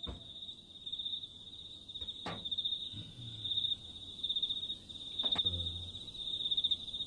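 Crickets chirping in a steady, pulsing high trill. Three sharp knocks, about a second in, midway and near the end, are joined by a few short low thuds.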